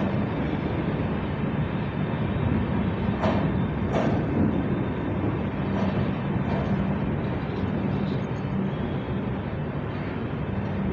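Passenger train coach running along the track, a steady rolling rumble heard from an open doorway. There are a few sharp wheel clacks over rail joints, one at the start and two close together about three to four seconds in.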